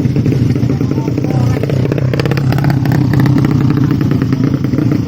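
Motorcycle engine running steadily, with a rapid rattling stretch about two seconds in.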